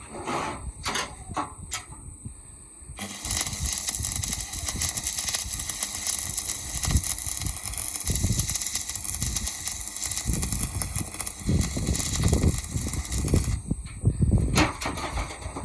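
Electric arc welding on a plough: about three seconds in, the arc strikes and crackles and hisses steadily for about ten seconds, then stops suddenly. A few sharp knocks come before and after.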